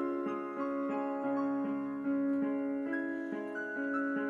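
Instrumental break of a gentle song: piano or electric piano playing a melody over sustained chords, with no singing.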